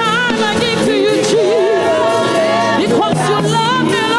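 Gospel singing: a voice holding and bending long notes with a wide vibrato, without clear words, over music.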